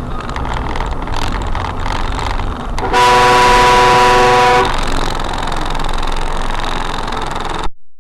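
Road noise from a moving vehicle, with a loud vehicle horn sounding steadily for about a second and a half, about three seconds in. The sound cuts off abruptly near the end.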